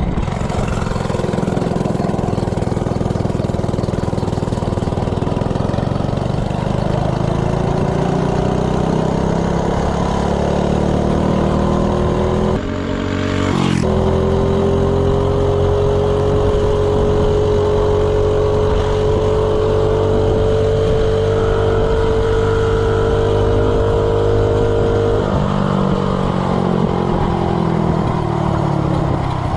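Coleman CC100X minibike's 3 hp single-cylinder engine at full throttle with stock ignition timing. Its pitch climbs steadily, with a short break partway through, then holds high and steady for about ten seconds before dropping near the end as it comes off the throttle.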